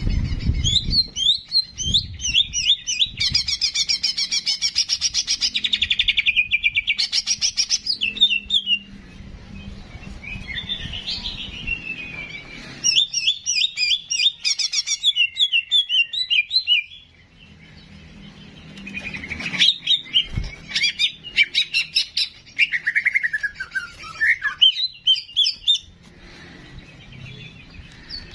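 Cucak jenggot song played as a masteran: long runs of rapid, high chirps and trills broken by short pauses, with a few whistled phrases that glide down in pitch.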